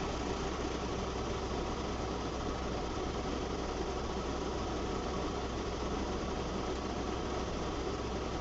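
Car engine running steadily, heard from inside the car: an even low hum and rumble with no distinct events.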